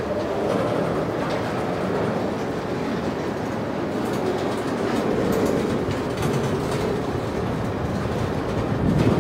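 Canadian Pacific freight train of boxcars rolling past, its steel wheels rumbling and clicking over the rail joints. There is a louder low thump near the end.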